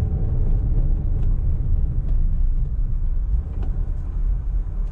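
Steady low rumble of a car's engine and road noise, heard from inside the moving vehicle.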